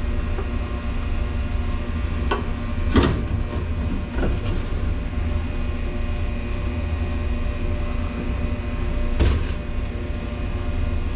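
A few knocks and clunks of metal parts being handled as a replacement dishwasher motor is lined up on its pump housing, over a steady low hum. The loudest knocks come about three seconds in and again near the end.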